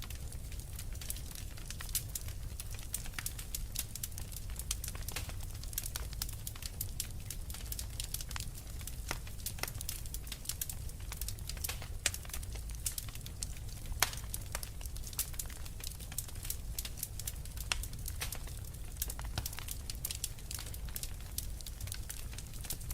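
Wood fire crackling: irregular sharp pops and snaps over a low steady rumble, with two louder pops about twelve and fourteen seconds in.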